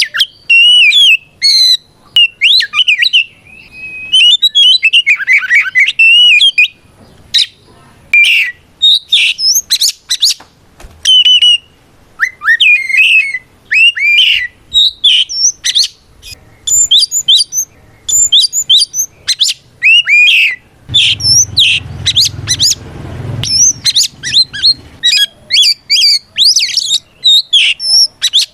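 Oriental magpie-robin singing loudly and continuously in rapid phrases of varied whistles, rising and falling glides and chirps. This is the full 'ngeplong' song used to call out and provoke a rival magpie-robin.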